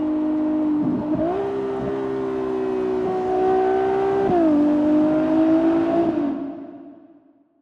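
Ferrari 296 GTS's twin-turbo V6 running under load. Its pitch steps up about a second in and drops sharply about four seconds in, and then the sound fades away.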